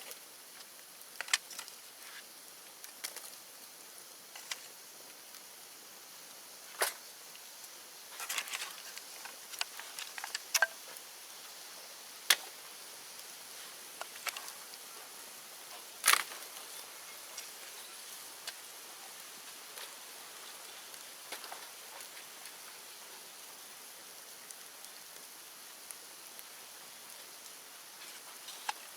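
Bonfire of cut bamboo and brush crackling, with scattered sharp pops and snaps, thicker in the first half and loudest about sixteen seconds in, over a faint steady high hiss.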